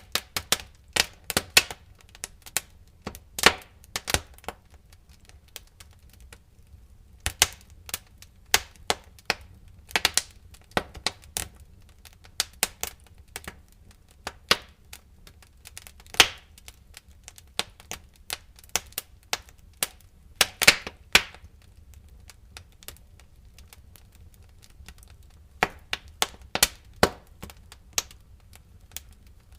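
Wood fire crackling in a fireplace: sharp, irregular pops and snaps that come in clusters, with a couple of quieter stretches lasting a few seconds, over a low steady rumble.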